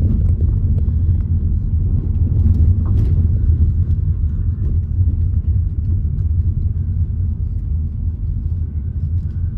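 Steady low rumble of road and engine noise inside a moving car, with a brief knock about three seconds in.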